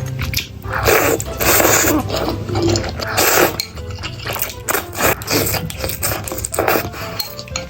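Background music under close-miked eating sounds: a run of about eight short, loud noisy bursts of a person eating.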